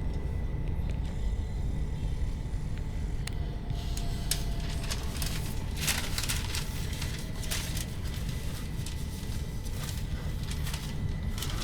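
Passenger train running, heard from inside the carriage: a steady low rumble from the wheels and running gear, with scattered clicks and rattles that come more often in the second half.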